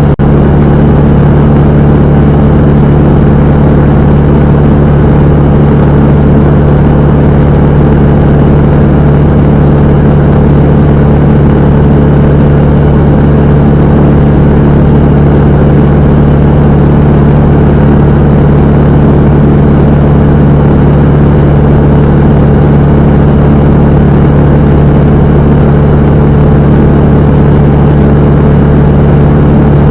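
Cessna 172M's four-cylinder Lycoming piston engine and propeller, a loud, steady drone holding one even pitch with no change in power.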